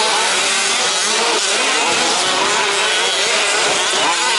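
Several 1/5-scale two-stroke petrol remote-control 4WD trucks racing, their small engines buzzing at high revs, rising and falling in pitch as they accelerate and back off.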